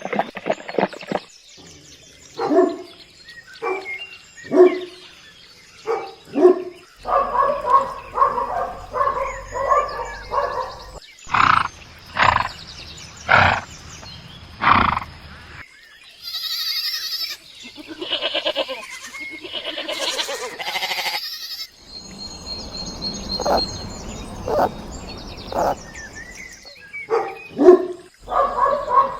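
Domestic ducks quacking: repeated short, nasal calls, in a run of separate clips that change every few seconds.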